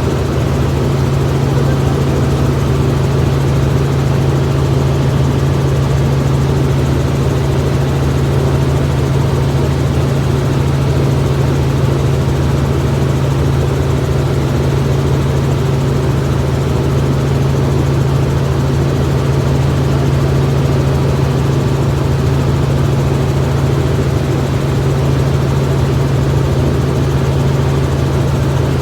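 Helicopter engine and rotors running with a loud, steady drone and a strong low hum, unchanging throughout.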